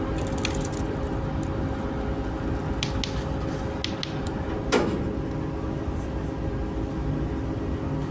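Steady hum of a ship's machinery, several fixed tones over a low rumble, with a few faint clicks and one sharp knock about five seconds in that trails off in a short falling ring.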